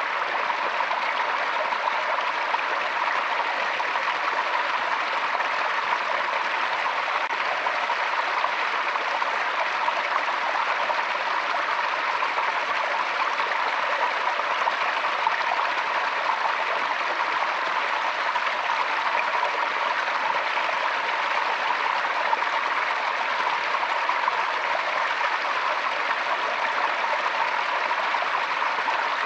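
Forest stream flowing over rocks: a steady, even rush and babble of running water.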